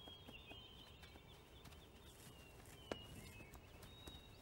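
Quiet outdoor ambience: faint, high birds chirping on and off, with a few soft clicks and one sharper click about three seconds in.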